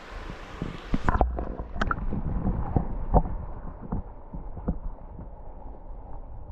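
Steady rushing hiss of a mountain stream that cuts off suddenly about a second in, followed by irregular low thumps and knocks.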